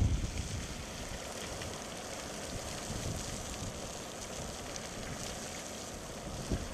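Fly Geyser's jets of near-boiling water spraying and splashing steadily, heard as an even hiss. Wind buffets the microphone in the first moment.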